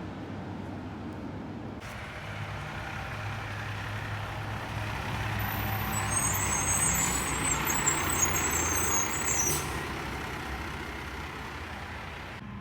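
Rear-loader garbage truck running, with a steady engine hum that swells louder in the middle. A high squeal sits over the hum from about six to nine and a half seconds in, then the sound eases off.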